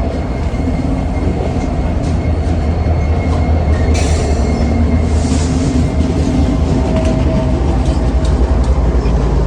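Train rumbling steadily, a deep, loud low-end rumble, with a sharp click about four seconds in and a short hiss a second later.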